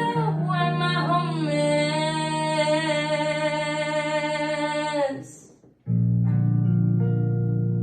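Female voice singing over guitar-like chord accompaniment. The voice holds one long, slightly wavering note, and both stop about five seconds in. After a brief gap, a new chord sounds loudly and rings on.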